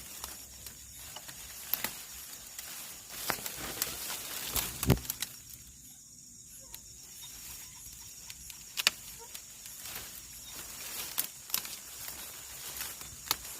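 Irregular rustling and sharp clicks of movement through vegetation, the loudest about five and nine seconds in, over a steady high-pitched chorus of night insects.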